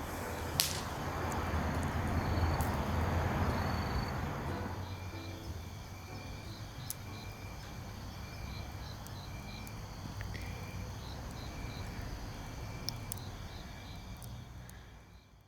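Insects, likely crickets, chirping in short, evenly repeated pulses over a low steady background, with a few sharp crackles from the campfire. Everything fades out at the very end.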